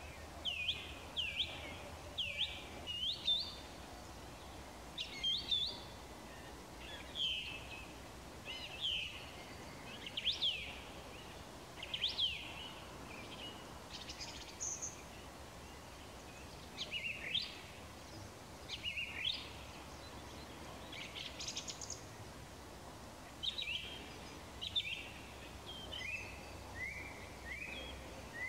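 Evening songbirds calling: short chirps that sweep quickly up or down in pitch, singly or in quick pairs, every second or two, over a steady low background hum.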